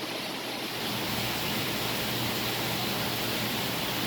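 Steady rushing noise of aquarium water circulation and filtration, with a faint low hum; it gets slightly louder about a second in.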